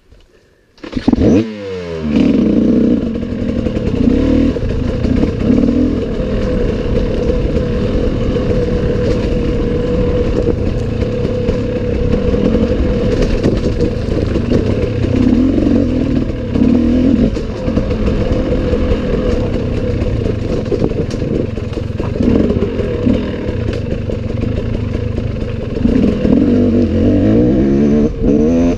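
Enduro dirt bike engine that starts running about a second in and sweeps up in revs, then keeps running with revs rising and falling.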